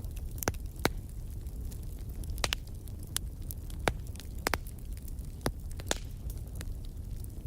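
Wood fire crackling in a fireplace: sharp irregular pops over a steady low rumble of the flames.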